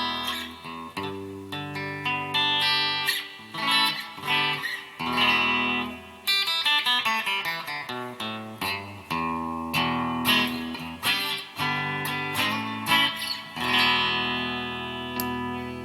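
Donner DST-200 electric guitar with its bridge humbucker coil-split, played clean through an amp with a little reverb: chords strummed and left to ring, restruck every second or so, with some quicker picked notes in the middle.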